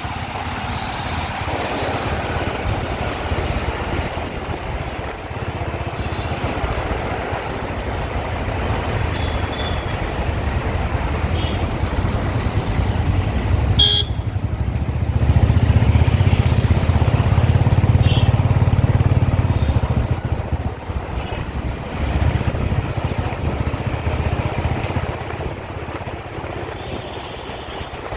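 Riding a motorbike through city traffic: a steady low engine and wind rumble that swells louder about halfway through, with short horn toots from the traffic now and then and one sharp click near the middle.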